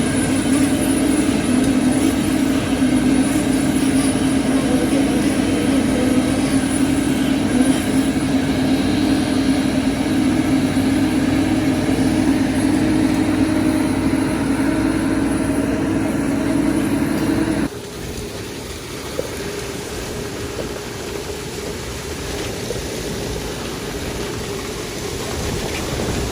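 Diesel engine of a concrete boom pump truck running steadily as it pumps concrete. About two-thirds of the way through, the sound drops suddenly to a quieter, steady engine hum.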